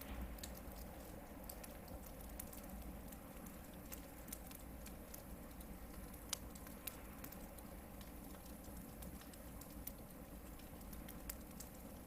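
Hardwood campfire burning, crackling with scattered small pops and one sharper pop about six seconds in, over a faint low rumble.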